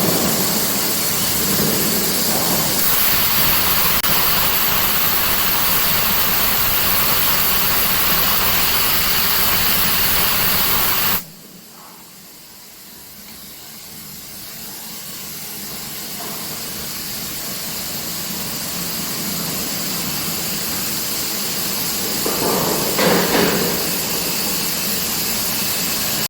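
Loud, steady hissing from a steel rail induction quenching line. It cuts off suddenly about eleven seconds in, then returns quieter and slowly builds up again, with a short louder burst near the end.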